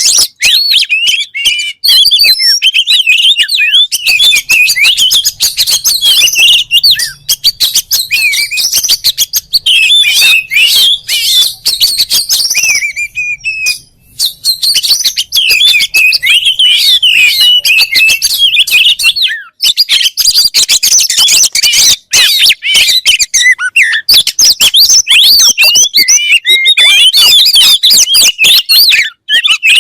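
Oriental magpie-robin (kacer) singing a loud, continuous, fast song of varied whistles and chirps, with a short pause about fourteen seconds in.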